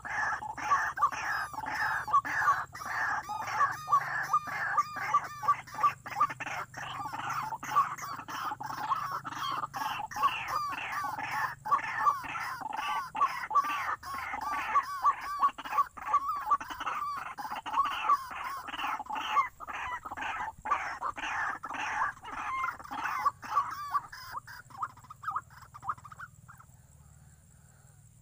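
White-breasted waterhen (ruak-ruak) calling in a rapid, repeated chatter of harsh notes, which dies away a couple of seconds before the end.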